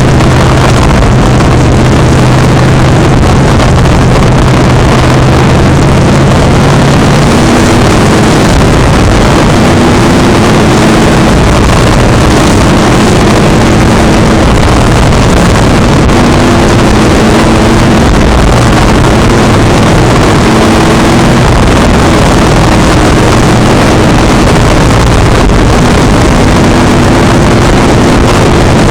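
Sport trucks racing on a short oval track: a crowd of engines running at speed, very loud and distorted. A steady low engine note holds for about the first seven seconds, then higher engine notes come and go as trucks pass.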